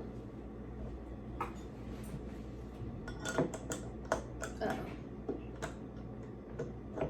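Light, scattered clicks and knocks of a soda bottle being picked up and handled on a table, a dozen or so small separate taps.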